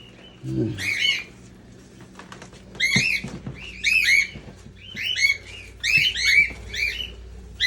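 Small pet parrots calling: short rising-and-falling chirps, about one a second, with a few faint ticks in between.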